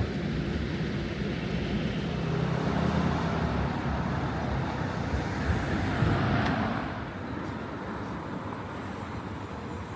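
Road traffic: a vehicle passes close by, growing louder and then fading about seven seconds in.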